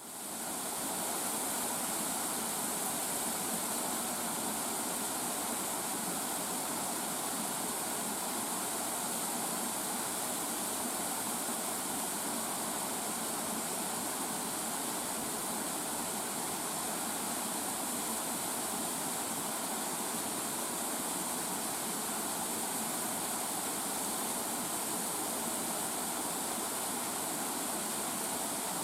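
Shinrei Falls' cascade of small waterfalls rushing steadily down a rock gorge, fading in at the start.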